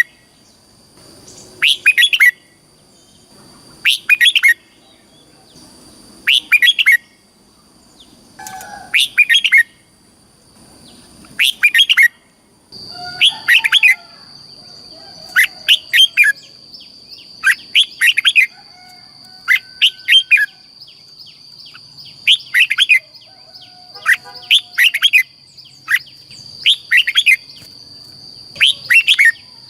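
Red-whiskered bulbul singing short, loud, several-note song phrases, repeated about every two seconds. A steady high-pitched tone sounds under the song from about halfway through.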